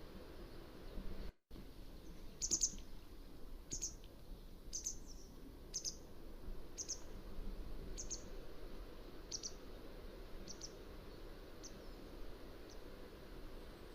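Mountain wagtail giving a series of short, high call notes, about one a second, growing fainter toward the end, over a steady low background hiss. The sound cuts out completely for an instant about a second in.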